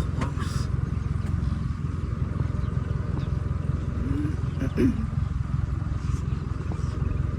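A steady low rumble, with faint, scattered high chirps from the purple martin flock above it.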